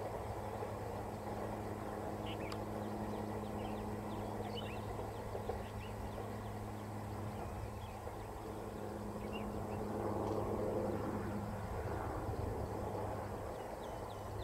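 Steady distant rumble and low hum of a diesel-hauled passenger train running away from the listener, its EMD WDP-4 locomotive out of sight ahead, with birds chirping briefly over it.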